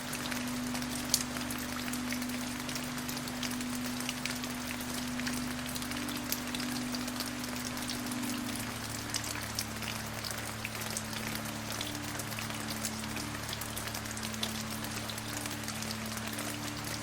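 Steady rain falling on a surface, a continuous hiss with many separate drops ticking through it. Low, steady held tones sit underneath and shift in pitch about halfway through.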